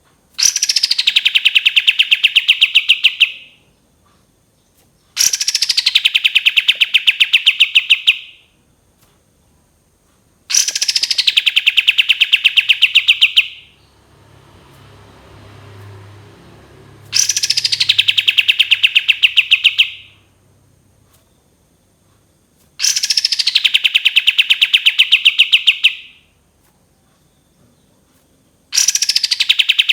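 Kapas tembak bird singing its long 'tembakan' phrase: a high note falling into a fast, even trill, each phrase about three seconds long, repeated the same way every five to six seconds.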